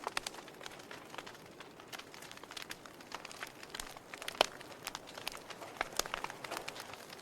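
Wood fire burning in a fireplace, crackling with irregular sharp pops over a soft hiss, the loudest pop about four and a half seconds in.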